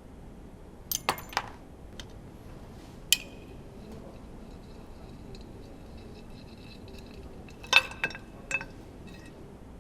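Metal tools and engine parts clinking and tapping while a racing engine is taken apart: a quick cluster of clinks about a second in, a single one near three seconds, and the loudest group near the end, with a faint high ringing tone in between.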